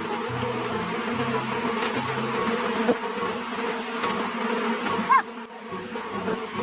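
A steady buzzing hum at an even pitch, like a small motor or power tool running, that falls quieter about five seconds in.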